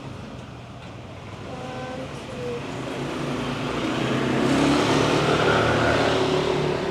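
A motor vehicle passing close by: its engine noise grows louder to a peak about five seconds in, then begins to fade as the pitch drops slightly.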